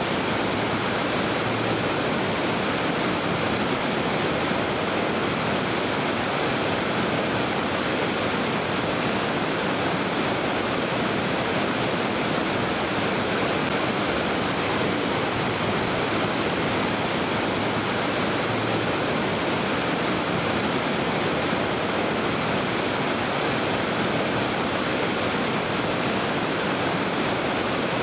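Mountain river rushing over rocks, a steady, even roar of water with no breaks or changes.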